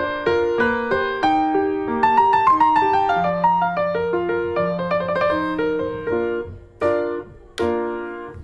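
Background piano music: a steady run of notes and chords, then two single struck chords, each left to fade, near the end.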